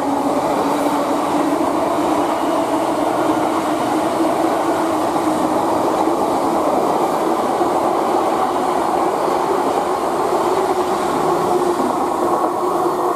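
GWR Class 800 Intercity Express Train running past close by: a loud, steady running noise of wheels on rail with a steady hum underneath.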